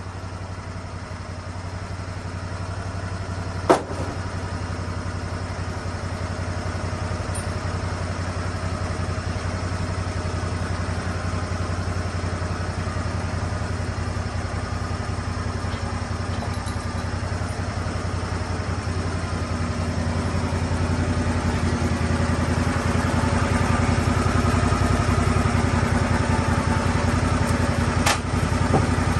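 Lucas Mill swing blade sawmill's engine running steadily, getting louder over the last third. A sharp knock about four seconds in and another near the end.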